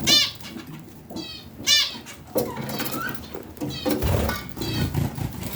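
Budgerigars chattering and warbling: a run of short, sharp chirps and quick rising-and-falling calls, loudest near the start and again just under two seconds in.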